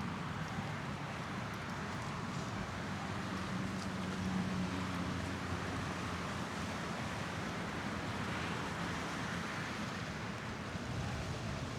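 Steady outdoor city noise: a continuous hiss of traffic, with a low engine hum swelling briefly about four to five seconds in.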